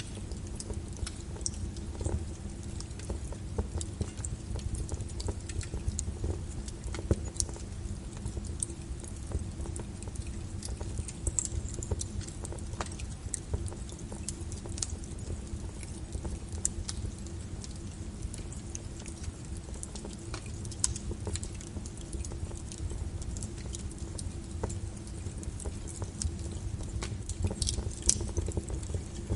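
Wood fire burning in a fireplace: a steady low rumble of flames with irregular crackles and sharp pops, a few of them louder.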